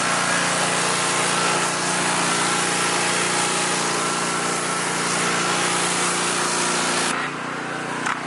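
A gas pressure washer's small engine runs steadily while the wand sprays water onto a truck tire, rinsing off the tire cleaner and brown grime. About seven seconds in, the spray cuts off and the engine keeps running.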